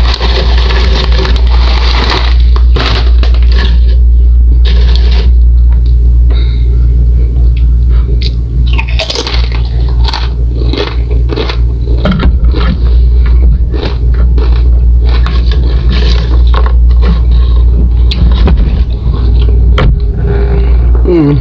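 Tortilla chips crunching as they are bitten and chewed, with crinkling and scraping from the chip bag: irregular sharp crackles over a steady low hum.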